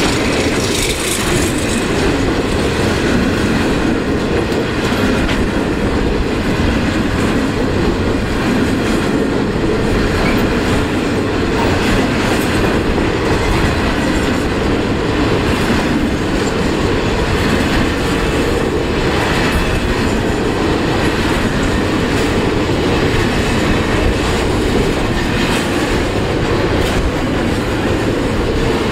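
Grain hopper wagons of a long freight train rolling past close by: a steady rumble from the wagons and wheels, with the clickety-clack of the wheels running over the rails.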